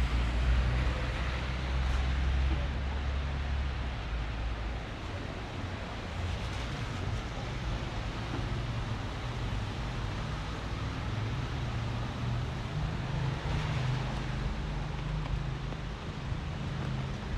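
City street traffic: a vehicle's low engine rumble that fades over the first few seconds, then another engine humming steadily near the end, over a continuous hiss of passing traffic.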